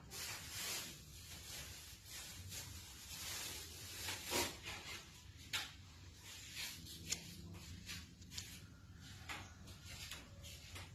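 Irregular rustling and soft knocks of things being handled, the loudest about four seconds in, over a low steady hum.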